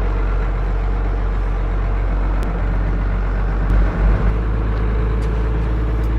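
Old Ford semi truck's engine running steadily as the truck drives slowly, with a couple of low thumps about four seconds in.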